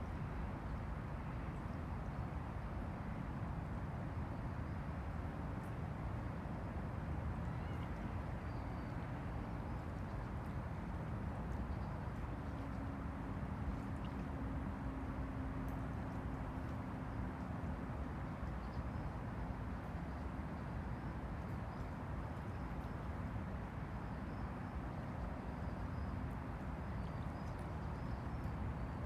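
Small waves of the Han River lapping against the bank in a steady wash of water. A steady low drone joins for several seconds about twelve seconds in, and faint high chirps come in the second half.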